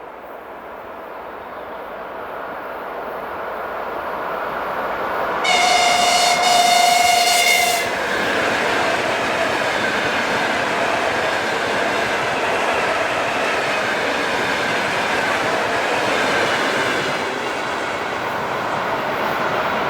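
A train approaching and passing close by, its horn sounding once for about two seconds partway in, two tones at once. After the horn comes the steady loud noise of the train running past, with wheel clatter on the rails.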